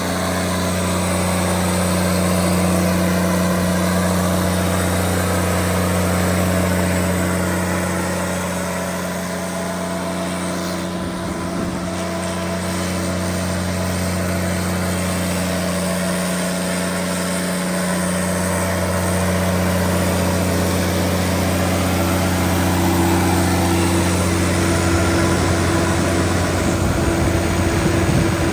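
Cummins QSL9-G7 inline-six diesel engine of a 300 kW generator set running at a steady, constant speed.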